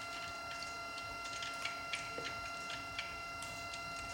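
Electric water pump running with a steady whine, circulating freshly filled 50/50 antifreeze through the small-block V8's cooling system to purge the air. Light, irregular ticks sound over the whine.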